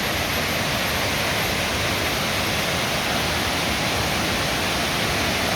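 Steady rush of water from the Tad Sae waterfall cascades, an even unbroken hiss.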